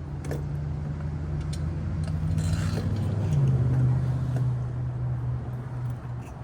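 A motor running steadily with a low hum, its pitch shifting slightly about three seconds in, with a few faint clicks.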